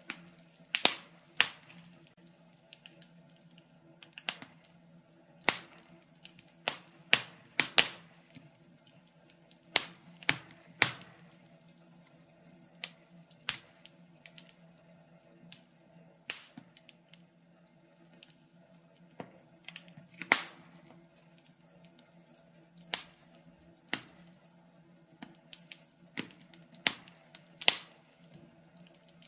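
Wood fire in a fireplace crackling, with irregular sharp pops and snaps, some louder than others, over a faint steady low hum.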